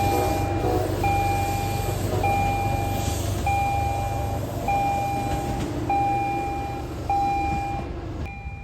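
Railroad crossing or platform warning signal sounding a steady electronic tone that repeats about once a second, over the low rumble of a train. The rumble fades near the end while the warning tone keeps going.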